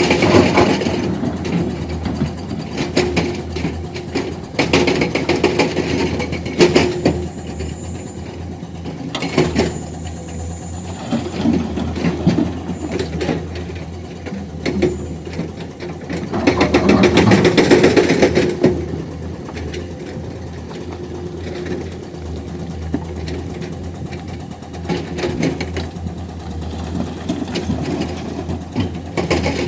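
Heavy diesel machinery running with a steady low drone, broken by several surges of loud clattering, rattling noise. The longest and loudest surge comes about 17 to 18 seconds in.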